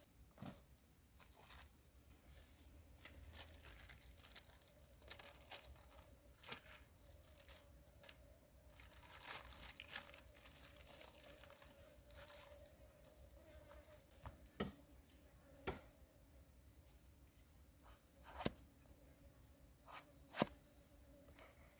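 Faint rustling and tearing with scattered sharp clicks and taps, the loudest few in the second half.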